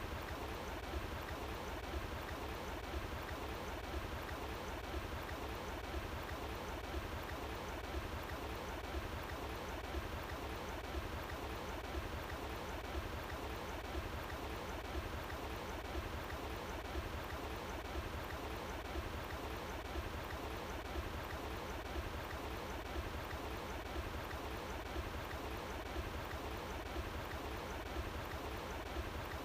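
Running water flowing steadily, an even rushing sound without a break.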